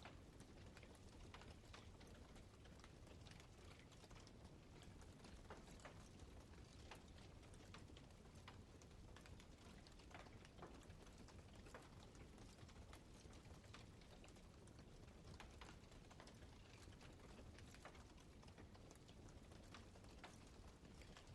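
Campfire crackling faintly: irregular small snaps and pops over a low steady rumble.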